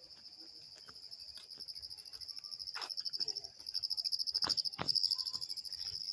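Crickets chirping in a steady, fast, high trill that grows louder about halfway through, with a few short knocks, likely footsteps, mixed in.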